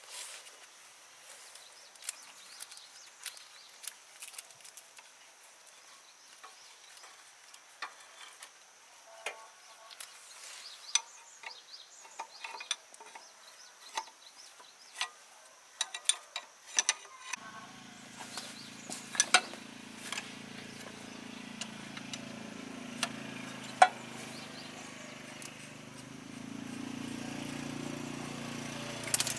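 Scattered sharp metallic clicks and taps of hand work on machinery. A bit over halfway a low, steady machine drone sets in and keeps running, like a small engine.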